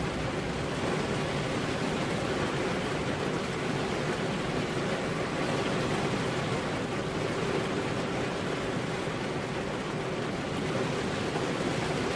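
Steady, even rain, a constant rushing hiss with no thunderclaps.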